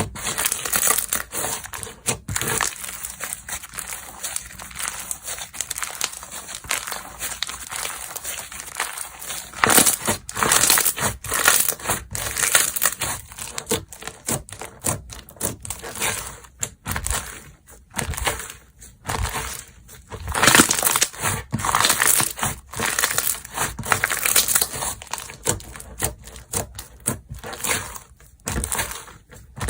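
Slime being squeezed, poked and stretched by hand, a fast, irregular run of sticky pops and crackles with louder bursts about ten and twenty seconds in.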